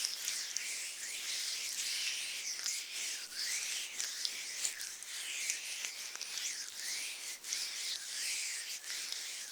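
Ear pick (mimikaki) scraping and rubbing in an ear close to the microphone: a run of sweeping scratchy strokes, about one a second, with small crackles between them.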